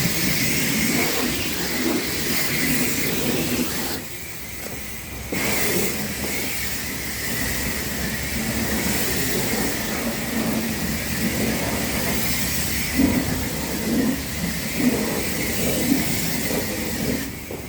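Self-serve car wash spray wand hissing as water jets onto a truck, cutting off for about a second around four seconds in and again near the end.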